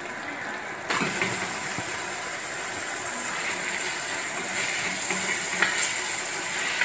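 Minced meat sizzling in hot oil and fried onions, starting suddenly about a second in as the mince goes into the pot, then a steady sizzle while it is stirred with a spatula to brown.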